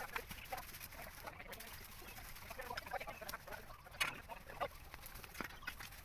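Faint, scattered short clucking calls of poultry, with a sharper click about four seconds in.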